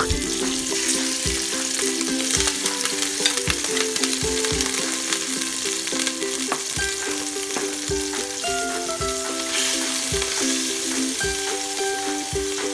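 Raw chicken pieces sizzling as they fry in hot oil with garlic and onion in a metal pot, with occasional dull knocks from the spoon and ladle against the pot and plate. Background music plays over the sizzling.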